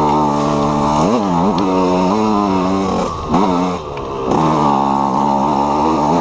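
KTM EXC 125 two-stroke single-cylinder enduro engine running under load. Its pitch holds steady in stretches and dips and climbs sharply about a second in, again near three seconds, and around four seconds as the throttle is rolled off and opened again.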